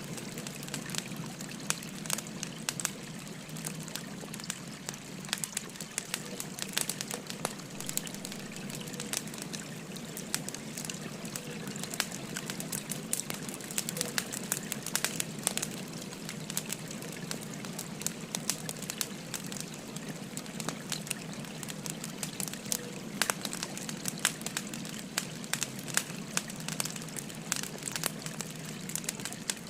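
Firewood burning with frequent sharp crackles and pops, over the steady rush of a flowing river.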